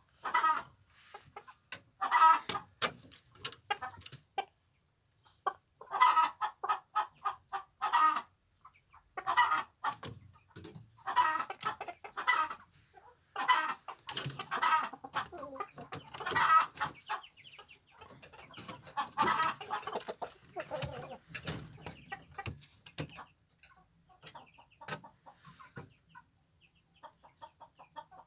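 Domestic chickens clucking in clusters of quick, short calls, growing sparser near the end.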